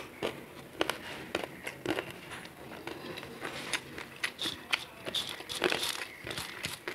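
Close-miked eating sounds: wet mouth clicks and smacks from chewing rice and vegetables, with fingers squishing rice on a steel plate, several irregular clicks a second.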